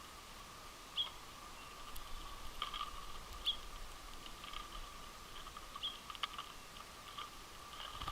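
Winter finches at a seed feeder: short high chirping calls scattered through, with sharp clicks and taps at the feeder, the loudest about a second and three and a half seconds in. A faint steady hum runs underneath.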